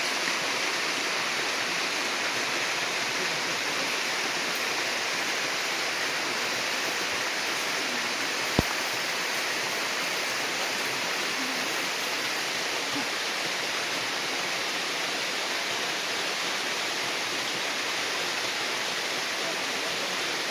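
Waterfall rushing steadily, a constant wash of falling water. A single sharp click comes about halfway through.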